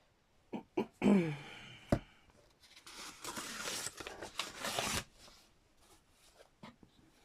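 Paper crackling and rustling for about two seconds as a collage piece is handled and pressed down, after a few light taps and a short hum from a voice.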